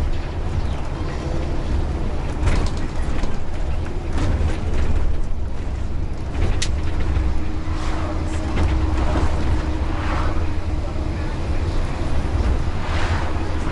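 Bus running along the road, heard from inside the cabin: a steady low engine and road rumble, with a short sharp click about halfway through and faint voices near the end.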